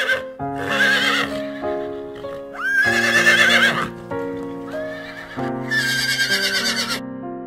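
Horse neighing several times, each whinny about a second long with a quavering pitch, over steady keyboard background music.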